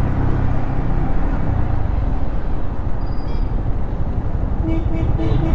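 Yamaha MT-15's single-cylinder engine running through its stock exhaust while riding, with road and wind noise; the engine note softens a little after a second or so. A few short beeping tones sound near the end.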